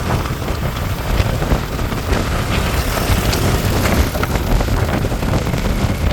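Wind buffeting the microphone over the steady low rumble of a vehicle on the move, with scattered crackles.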